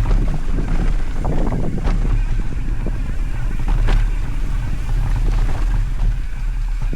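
Wind buffeting the microphone as a mountain bike rolls along a dirt trail, with scattered clicks and rattles from the bike.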